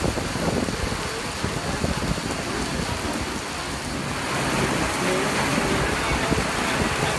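Heavy rain and gusting wind, a steady noisy rush with wind rumbling on the microphone; it gets louder about four seconds in.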